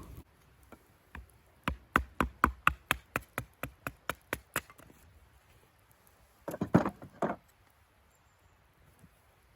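A quick, even series of about a dozen sharp knocks, roughly four a second, then a short clatter of heavier knocks a little over halfway through.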